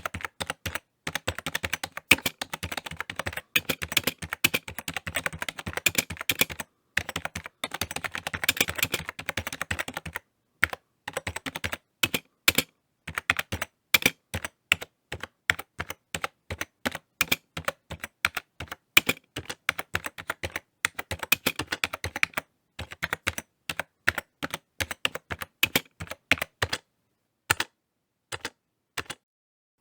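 Typing on a computer keyboard: fast, dense runs of key clicks at first, thinning to slower, irregular keystrokes, with brief pauses between runs.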